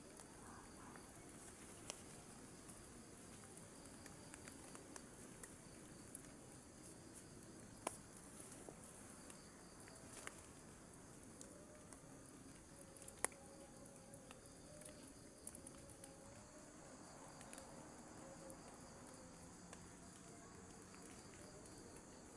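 Faint steady chirring of forest insects such as crickets, with scattered light taps and clicks, the loudest about 8 and 13 seconds in.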